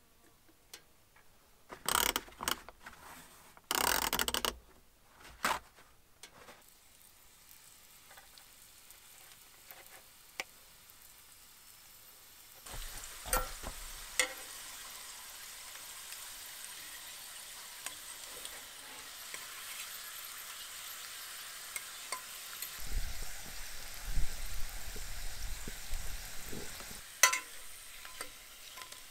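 Tortilla triangles frying in hot oil in a skillet: a steady sizzle starts about 13 seconds in, with clicks and scrapes of a fork turning the pieces. Before that come a few loud clattering handling noises about two and four seconds in.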